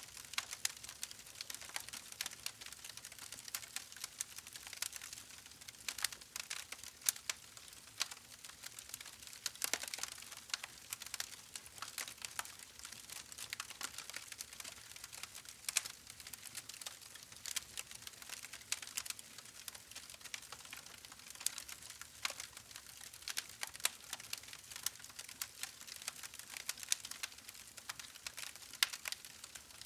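Wood fire crackling in a fireplace: a steady faint hiss with many irregular sharp pops and snaps.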